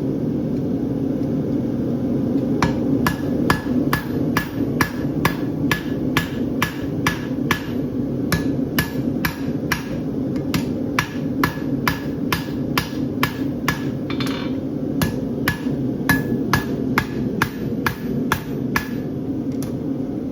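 Farrier's hammer striking hot bar steel on an anvil while forging a horseshoe, each blow with a short ring. The blows begin about two and a half seconds in and keep a steady rhythm of about two a second, over a steady low rushing noise.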